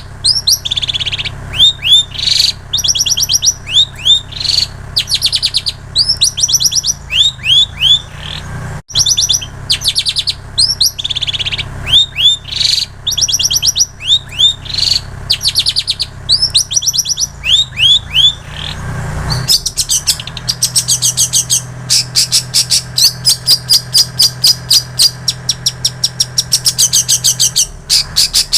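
Long-tailed shrike (cendet) singing loudly, its song filled with mimicked prinia and canary phrases: short bursts of quick, rising chirped notes repeated over and over, then, about two-thirds of the way through, a long, fast, even trill of rapid notes.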